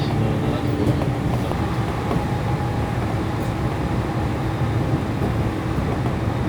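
Steady running rumble heard from inside a JR Tokaido Line local train cruising between stations, with a faint steady hum in the middle.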